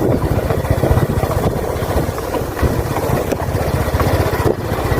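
Boda boda motorcycle taxi engine running steadily as it rides along, a continuous low pulsing rumble.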